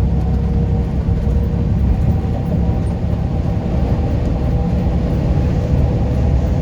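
Semi truck driving at highway speed, heard from inside the cab: a steady low rumble of engine and road noise with a faint steady whine.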